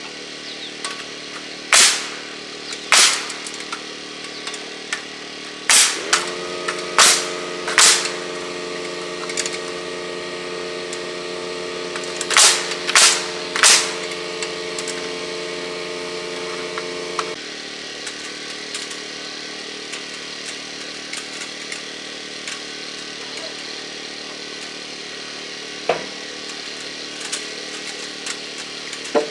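Sharp knocks of nails being driven into lumber framing, in small groups of one to three blows, over a steady engine running in the background. From about six seconds in, a steady pitched hum joins and cuts off suddenly at about seventeen seconds.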